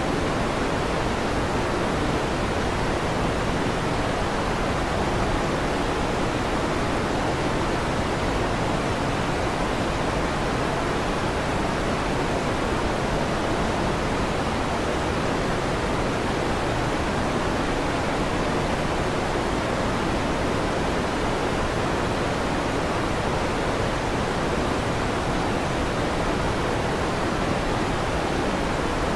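Electric fan running steadily: an even rushing noise that holds one level throughout.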